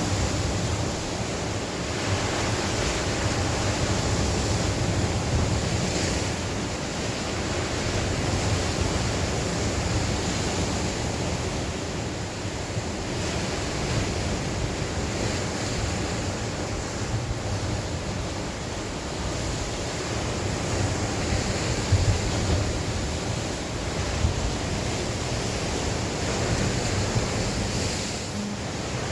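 Sea waves breaking and washing on the shore, a continuous surf rising and falling in slow swells, with wind buffeting the microphone as a low rumble.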